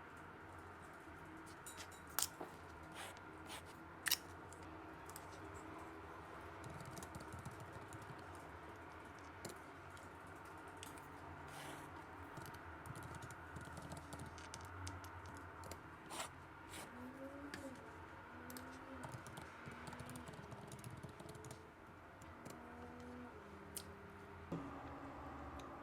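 Scattered light clicks and taps, two sharper ones about two and four seconds in, over a faint steady room hum.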